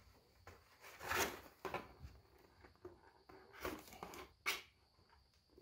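Faint rustling and scraping of hands handling 3D-printed plastic parts while gluing them, in a few short irregular strokes.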